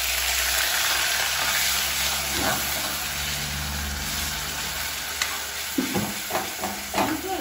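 Onion paste and spices sizzling in hot oil in a pan as they are stirred, with a few sharp knocks of the spoon against the pan near the end.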